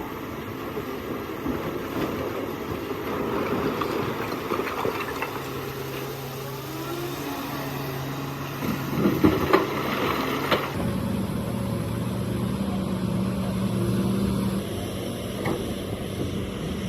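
Hydraulic excavator's diesel engine running steadily, with a cluster of sharp knocks about nine to ten seconds in. The engine tone changes abruptly near the two-thirds mark.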